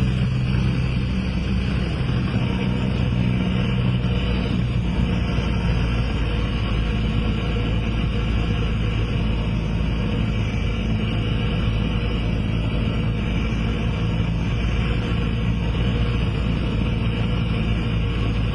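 Cessna 172SP's four-cylinder Lycoming engine and propeller making a steady drone inside the cabin, on final approach for a touch-and-go.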